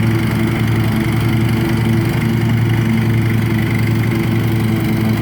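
Riding lawn tractor's engine running steadily at an even speed while mowing.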